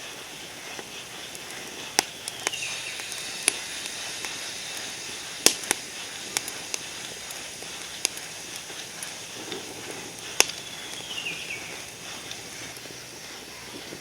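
Wood campfire crackling, with about seven sharp, irregular pops over a steady hiss. Two short falling squeaks are heard, one a little after two seconds in and one near eleven seconds.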